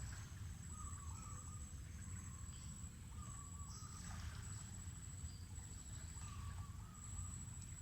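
Mangrove forest ambience: a bird gives a short warbling call three times, with a few higher chirps, over a steady high-pitched insect drone and a low rumble.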